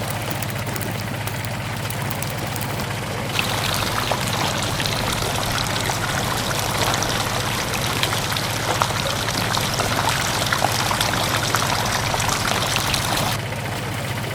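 A small motor hums steadily while grainy material pours and trickles, a dense crackle of small clicks that starts suddenly about three seconds in and stops near the end.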